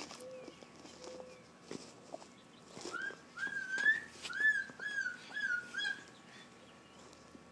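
A run of about six short whistled notes, each sliding upward, from about three to six seconds in, with two faint short low tones before them.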